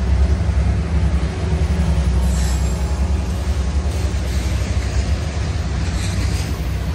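Union Pacific freight train passing close: the diesel locomotives' engines rumble as they go by, then loaded tank cars roll past with a steady clatter of wheels on the rails.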